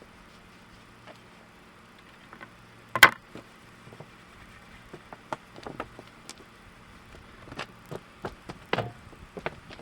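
Wooden boards being handled while they are oiled: one sharp clack about three seconds in, then a scattered run of lighter taps and clicks, over a faint low hum.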